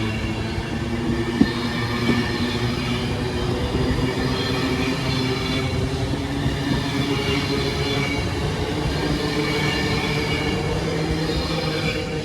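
Class 390 Pendolino electric train running through the station, a steady rail and motor noise with several whining tones that rise slightly in pitch later on as it gathers speed.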